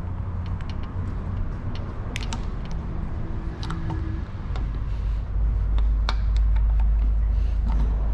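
Small sharp metallic clicks and taps as the piston pin is pushed through the piston and connecting-rod small end, over a steady low rumble that grows louder about halfway through.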